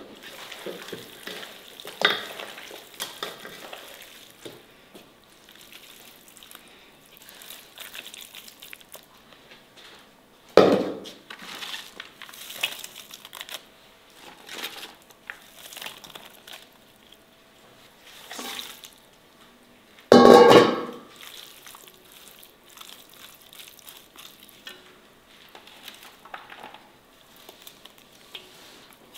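Chicken pieces and sliced onion sizzling and crackling in a cast-iron pot, with a few louder bursts about two, ten and twenty seconds in, the loudest near twenty seconds.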